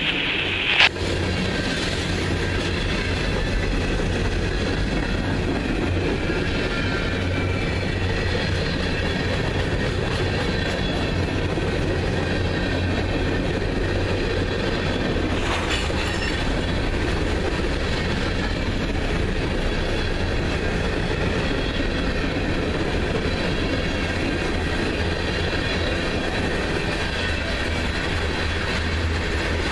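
Freight cars of a mixed manifest train (tank cars, covered hoppers, boxcars) rolling past on steel rails: a steady heavy rumble with wheel clicks and a faint high-pitched wheel squeal. A sharp bang about a second in is the loudest moment, and a fainter knock comes about halfway through.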